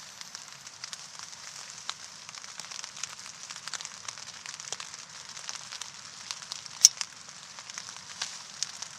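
Steady crackling with a high hiss and scattered sharp pops, one much louder pop about seven seconds in.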